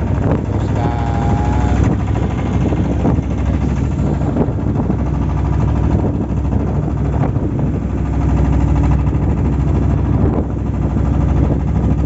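Fishing boat's engine running steadily while underway.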